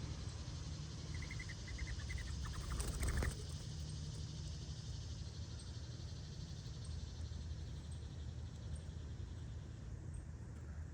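Backyard outdoor ambience with a steady low rumble. About a second in comes a quick run of short high chirps, followed by a brief, louder rustle.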